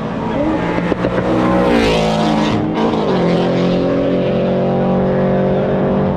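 Car engine under hard throttle, its pitch rising for about two seconds, dropping suddenly just under three seconds in as if at a gear change, then climbing slowly again.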